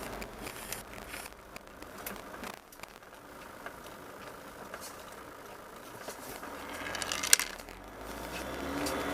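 Motorhome running, a low engine hum with small rattles and clicks from inside the vehicle, and a sharp click about seven seconds in.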